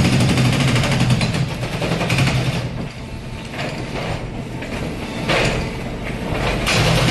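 Demolition robot's hydraulic machinery working with a fast mechanical rattle. It is loudest at first, eases off with short surges in the middle, and picks up again near the end.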